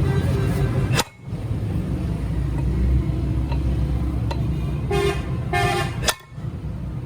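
A vehicle horn gives two short toots, about five seconds in and again half a second later, over a steady low rumble.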